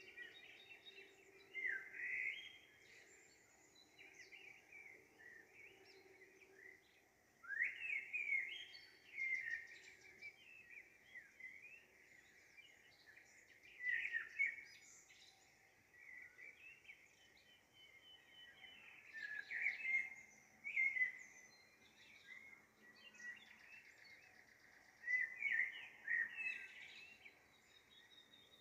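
Birds chirping in short bursts of quick, sliding high calls every couple of seconds, over a faint steady low hum.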